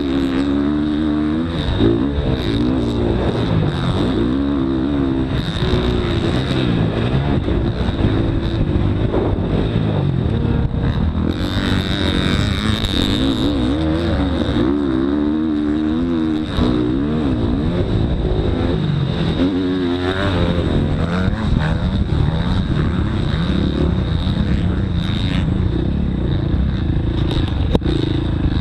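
Motocross dirt bike engine revving up and down over and over as it is ridden through the gears, with brief lifts off the throttle.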